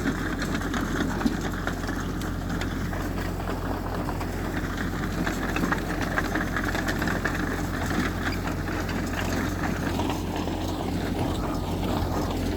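Heavy diesel earthmoving machinery engine running steadily with a low hum.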